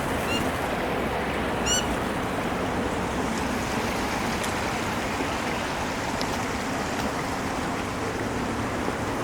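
Steady rush of flowing water, with two short high chirps in the first two seconds.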